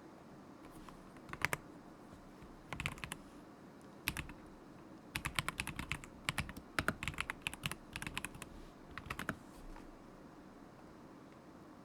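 Typing on a stock KZZI K75 Pro mechanical keyboard with Moment linear switches. Short bursts of keystrokes start about a second in, a longer run of quick typing follows in the middle, and the typing stops a couple of seconds before the end.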